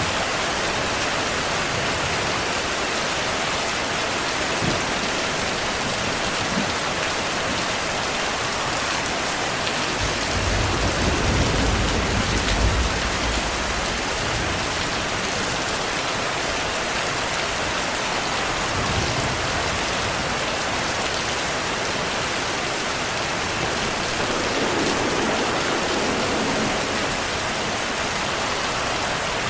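Steady rainfall with a low roll of thunder about a third of the way in that lasts a few seconds, followed by softer low rumbles later on.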